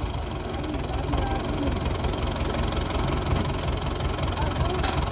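Tractor diesel engine running steadily, with a fast, even low beat.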